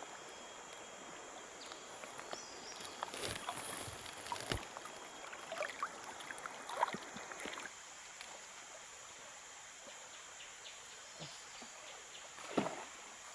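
Shallow river water splashing and sloshing in irregular bursts as a fishing net is set by hand while wading, busiest in the first half, with one more splash near the end, over a faint steady high hum.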